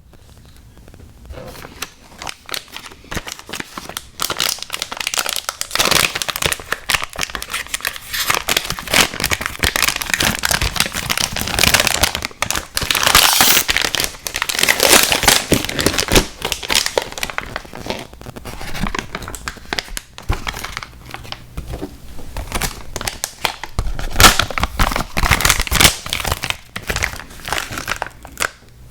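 Plastic candy packaging crinkling and crackling as it is handled, in dense bursts that swell louder twice.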